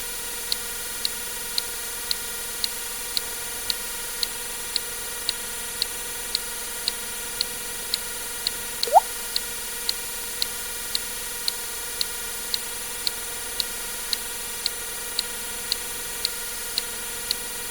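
Water-drip sound effect: a single quick rising plink about nine seconds in, over a steady hiss and a sharp high click repeating about twice a second.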